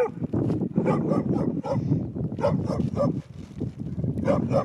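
A dog barking over and over in quick short barks, with a brief pause past the middle, over a steady low rumble.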